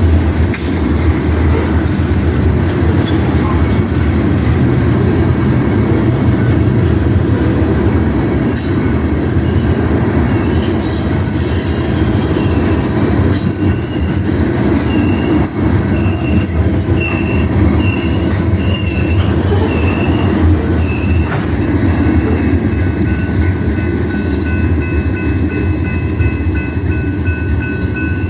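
Local freight train rolling by with a steady low rumble. From about ten seconds in, the wheels squeal in short, repeated high-pitched tones, which settle into a steadier squeal near the end.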